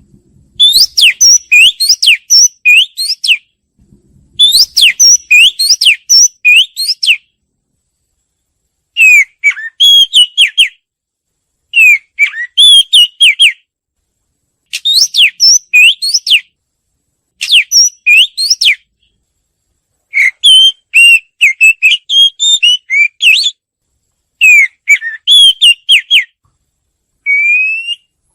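Oriental magpie-robin singing: loud, clear whistled notes that slur up and down in pitch, delivered in about nine separate phrases of one to three seconds each, with short pauses between them.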